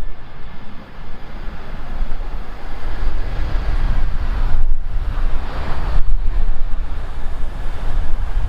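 Strong wind buffeting the microphone in a deep, gusting rumble, over the broad rushing noise of a jet airliner's engines that swells in the middle and then eases.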